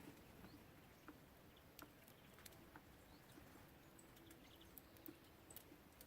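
Very faint scattered clicks and taps of small birds pecking and cracking seed at a feeder, about one or two a second, with a few brief faint high chirps.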